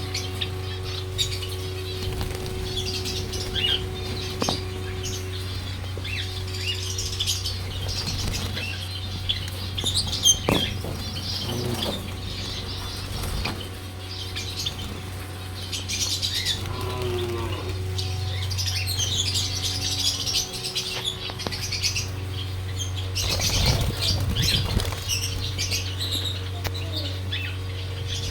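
A flock of small cage birds (budgies, lovebirds and similar) chirping and chattering continuously, over a steady low hum.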